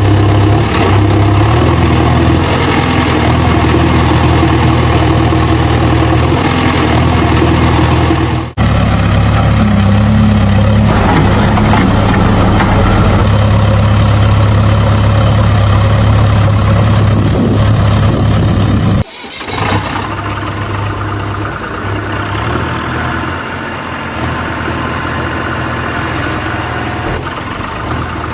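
A steady engine sound, running evenly, broken by two abrupt cuts about eight and nineteen seconds in. It is quieter after the second cut.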